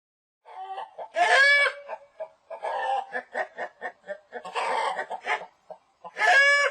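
Domestic chicken clucking and cackling. A loud, drawn-out squawking call comes about a second in and again near the end, with quick runs of short clucks in between.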